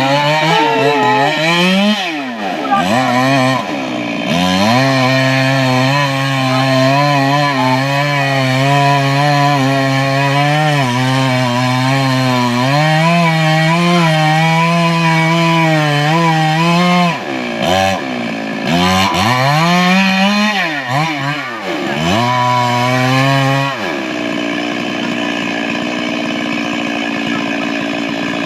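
Stihl chainsaw cutting wood. The engine holds a steady pitch through long cuts, and rises and falls in pitch as it is revved between them, a few seconds in and again about two-thirds of the way through.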